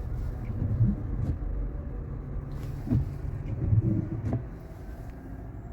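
Cabin noise of a Waymo robotaxi driving on wet city streets: a steady low road and tyre rumble.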